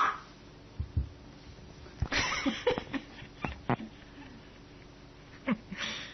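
Small dog barking in short single barks: one right at the start, a rougher one about two seconds in, and another near the end, with light clicks and ticks in between.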